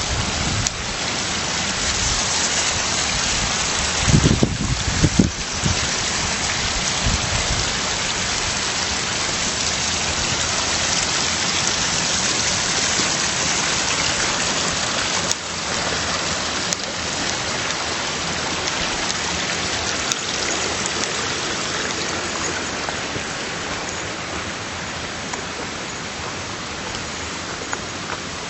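Steady rush of flowing river water, with a few low thuds about four to five seconds in.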